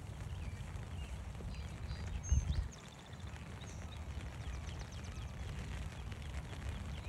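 Footsteps on a forest trail make a steady low thudding, with one heavier thump about two and a half seconds in. Small songbirds chirp and give short trills in the background.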